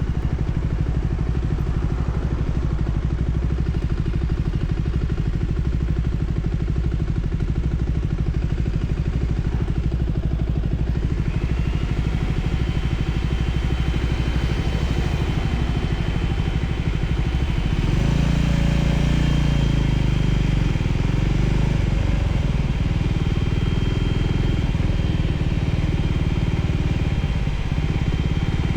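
Voge 300ACX motorcycle's single-cylinder engine running under way, a steady drone that gets louder and shifts in pitch about eighteen seconds in.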